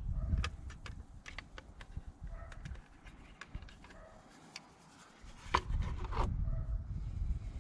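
Close handling noise: small clicks, taps and rubbing of objects handled in the hands, with a sharper pair of clicks about five and a half seconds in and a low rumble under it.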